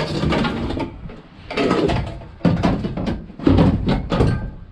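Scrap being shifted and wedged into a loaded van: several bouts of knocking, banging and scraping of hard items against each other.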